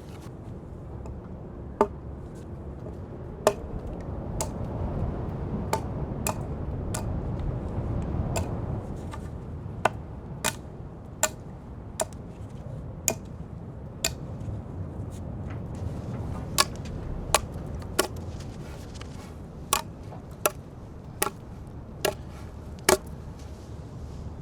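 Wood being chopped with an axe: about twenty sharp strikes at an uneven pace, roughly one a second, over a low steady hiss that swells midway through.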